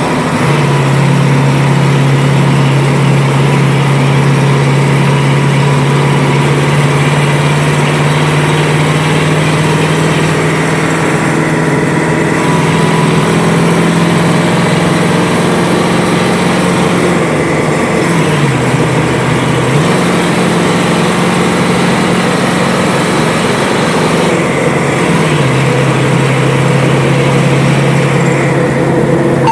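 Fire engine's engine running under way, heard from inside the cab as a loud steady low drone over road noise. Its pitch dips and recovers about two-thirds of the way through and drops again a few seconds later as the engine speed changes.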